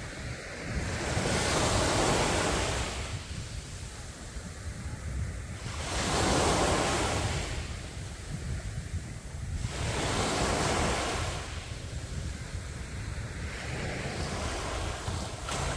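Sea waves breaking and washing ashore, surging and easing in turn about every four seconds, over a steady low rumble of wind on the microphone.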